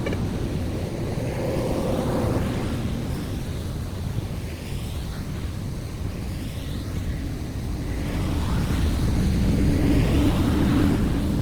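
Water rushing, mixed with a low rumble of wind on the microphone. It swells louder a little before the end.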